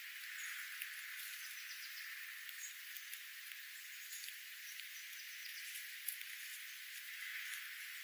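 Small wild birds giving short, high chirps now and then, with scattered sharp ticks, over a steady hiss.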